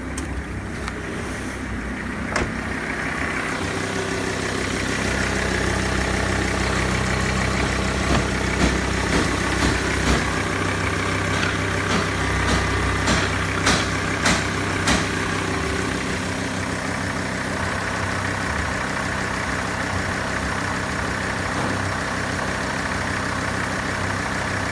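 Mercedes OM647 2.7 CDI five-cylinder turbodiesel running steadily at idle. A series of short sharp clicks sounds over it from about a third of the way in to just past the middle.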